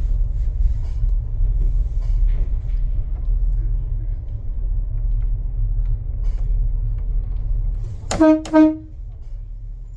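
Class 142 Pacer diesel railbus running, heard from its rear cab: a steady low rumble that eases near the end as the unit slows for the station. About eight seconds in come two short toots of the same pitch, the loudest sounds in the clip.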